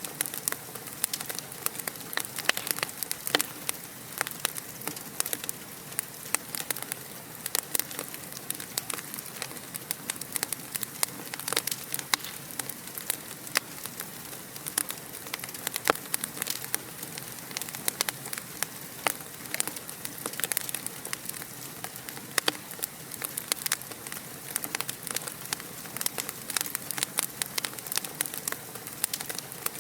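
Fireplace wood fire crackling steadily: a dense run of sharp pops and snaps over a soft hiss.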